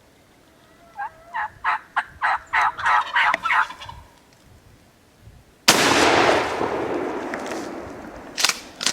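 A wild turkey gobbler gobbles once, a quick rattling run of notes. About two seconds later a single shotgun blast goes off and rumbles away over a couple of seconds. A couple of sharp clicks follow near the end.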